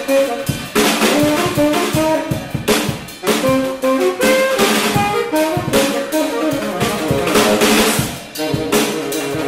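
Jazz band playing: a saxophone melody over a drum kit with snare and bass drum hits.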